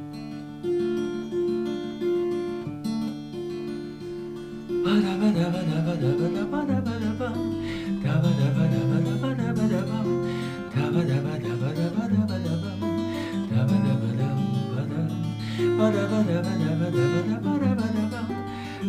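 Instrumental song introduction on acoustic guitar: sustained notes for the first few seconds, then a fuller accompaniment with a moving bass line from about five seconds in.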